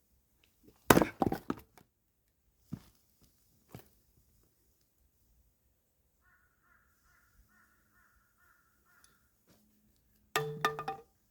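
Chunks of split firewood knocking and clattering together in a quick burst about a second in, followed by two lighter knocks. Near the end comes a short, loud, harsh sound with a pitched ring to it.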